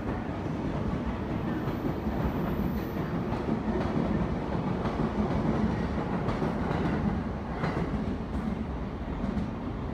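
E259 Narita Express electric train running past the platform: a steady rumble of wheels on rail, with a few short clicks as the wheels cross rail joints in the second half.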